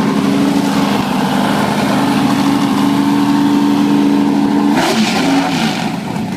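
Drag car's engine running loudly at a steady speed; about five seconds in its note shifts, with a brief hiss.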